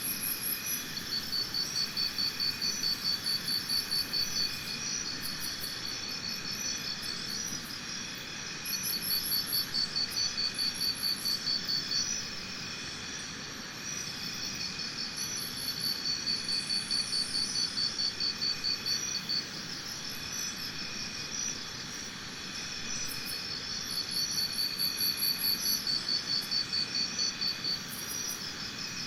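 Insects trilling in fast pulsed bouts of a few seconds each, four times, over a steady high-pitched insect chorus.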